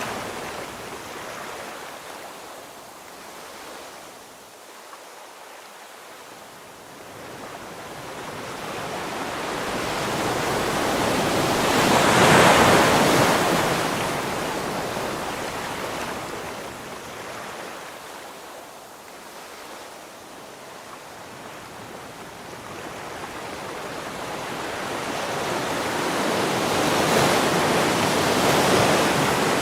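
Ocean waves breaking on the shore: a rushing surge that swells and ebbs, cresting twice, about twelve seconds in and again near the end.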